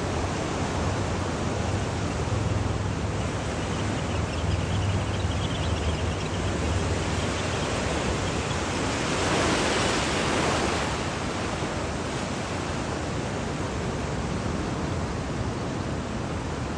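Ocean surf washing on the beach, a steady rush with one wave swelling louder about nine to eleven seconds in.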